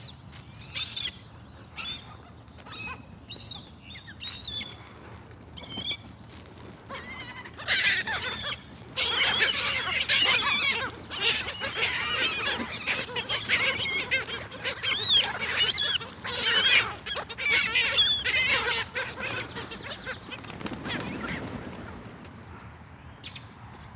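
A flock of seagulls calling as they feed: scattered calls at first, then many overlapping cries at once from about a third of the way in, dying down near the end.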